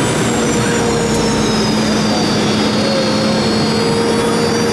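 Boeing 717's two Rolls-Royce BR715 turbofans running steadily, as heard in the cabin under a constant rush of air noise, with high whining tones that slowly fall slightly.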